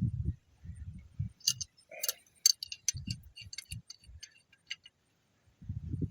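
Metal hand tools and parts clinking and rattling in irregular sharp clicks for a few seconds, with a few dull low bumps of handling in between.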